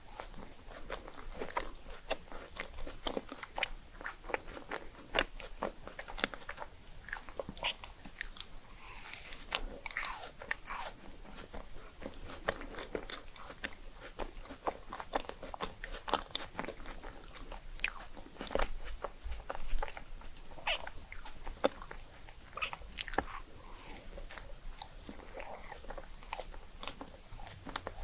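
Close-up crunching and chewing of rice cakes: irregular crisp bites and crunches, several a second, mixed with softer chewing.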